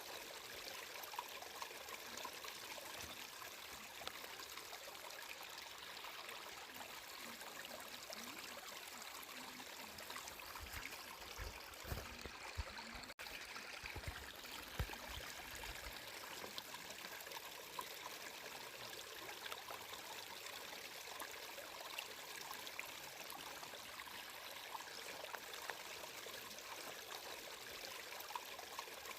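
Water flowing in a stream, a steady trickling and splashing rush. A few soft low thumps come about halfway through, and the sound cuts out for an instant in the middle.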